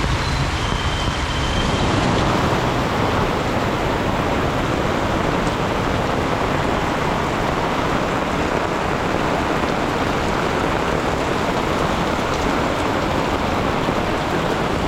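Heavy rain pouring down in a dense, steady hiss, which grows a little louder about two seconds in.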